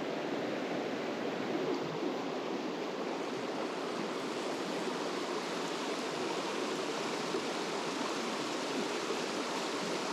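Mountain stream water running over rocks: a steady, even rush.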